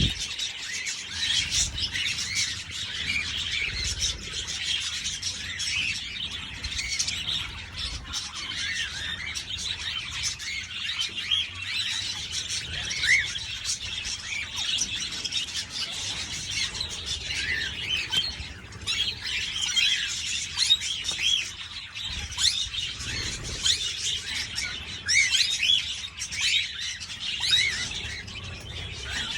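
A flock of budgerigars chattering: a dense, continuous stream of many short, overlapping chirps and warbles.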